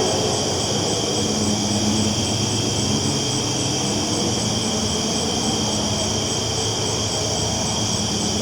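Train rolling along the tracks: a steady rumble with a hiss over it.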